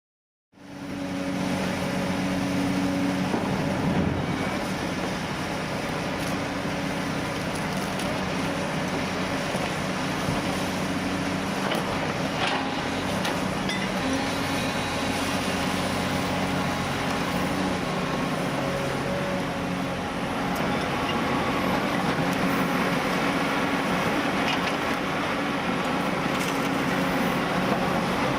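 Heavy diesel demolition machinery running steadily, its engine note shifting slightly, with a few scattered knocks.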